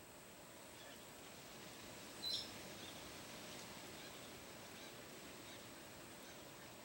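Faint outdoor bush ambience with one short, high bird chirp about two seconds in and a few fainter chirps.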